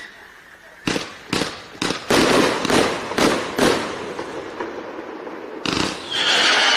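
Crush City Fisherman consumer firework going off: a rapid run of sharp bangs with crackling starting about a second in, then another bang near the end followed by a loud hissing burst with a steady high whistle.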